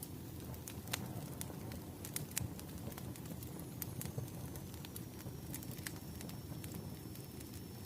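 Wood fire crackling: irregular sharp pops and snaps over a low, steady rumble of the burning fire.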